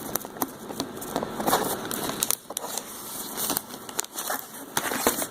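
Plastic snack bag crinkling and crackling as it is handled and pressed shut along its resealable zip, in many small irregular clicks.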